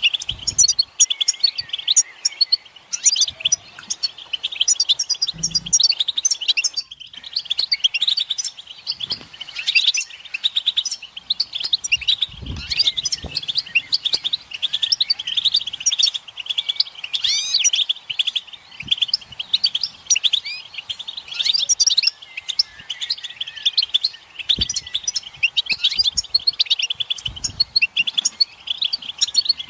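European goldfinches twittering and chattering together in a dense stream of fast, high chirps and short song phrases, with a brief break about seven seconds in. These are group and mating-readiness calls of the goldfinch.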